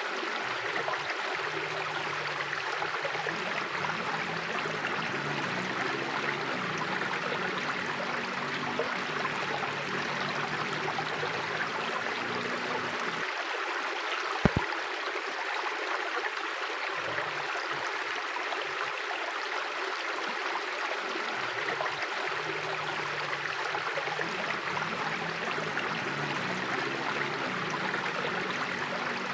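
Mountain river flowing steadily, an even rush of water, with one sharp click about halfway through.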